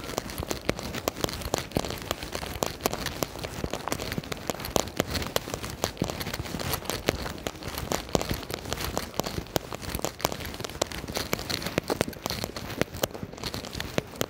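Rain falling, with a dense, irregular patter of drops striking close by.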